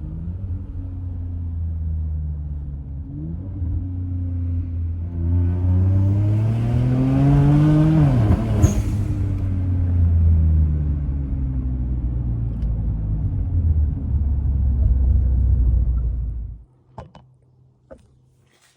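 2007 BMW 335i's N54 twin-turbo straight-six running with its exhaust open after the muffler and secondary cats were cut off, so it runs with no muffler and no cats at all behind its catless downpipes. It idles low, revs up once over about three seconds and drops back with a sharp crack, then idles on and is shut off near the end.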